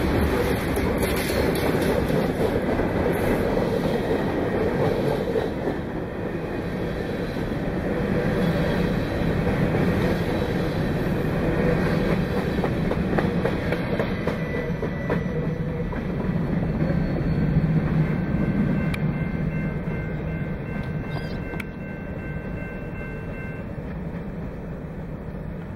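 Freight train cars rolling past, their wheels clacking over the rail joints in a steady rumble, with thin high steady tones in the second half. The sound eases slightly near the end.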